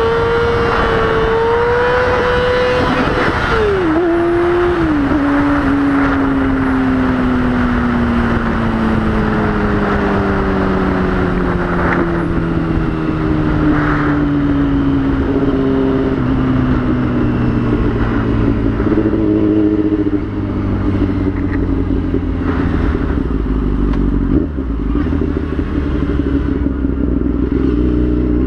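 2003 Yamaha YZF-R6's 600 cc inline-four engine holding steady high revs for about three seconds. The throttle then closes and the revs fall slowly for some twenty seconds as the bike slows, with brief breaks that sound like gear changes. The revs start to rise again right at the end, over a steady rush of wind noise.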